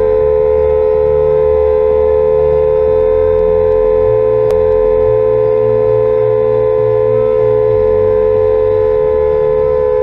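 A loud, steady single-pitched tone held unchanged for about ten seconds, then cut off abruptly, over background music with a slow beat.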